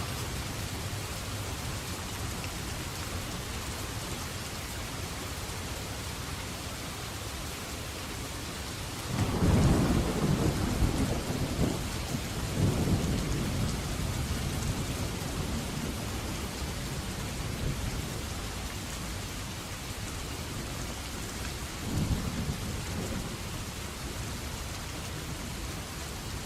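Steady rainfall with thunder: about nine seconds in a loud, deep peal breaks out and rolls on in several swells before fading away, and a second, weaker rumble comes near the end.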